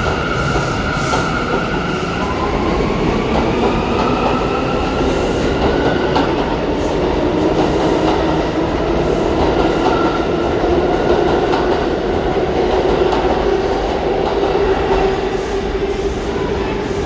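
R179 subway train pulling out and accelerating: the traction motors give a whine that rises slowly in pitch, over steady wheel-on-rail rumble.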